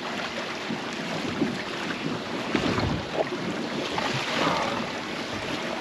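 Wind buffeting the microphone over sea water lapping against a small boat's hull.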